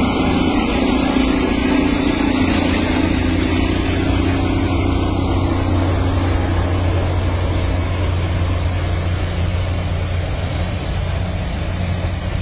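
Passenger train running along a hillside track: a steady running noise with a constant low hum, easing off slightly near the end.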